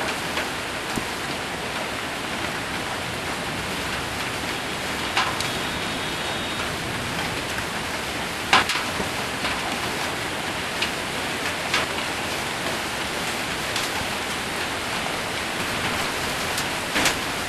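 Hail and rain falling on a roof: a steady hiss of rain with a few sharp, louder hailstone hits scattered through it, the loudest about eight and a half seconds in.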